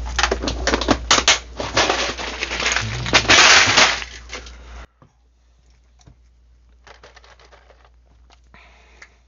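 Small stainless machine screws clicking and rattling as they are handled, with a louder rustling burst about three seconds in. After about five seconds the sound drops away to faint scattered clicks.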